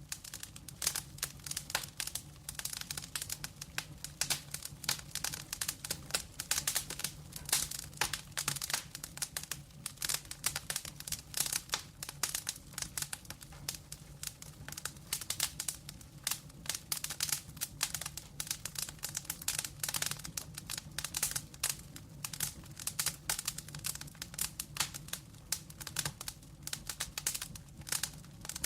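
Wood fire of burning logs crackling steadily, with dense irregular sharp pops and snaps over a low, steady rumble.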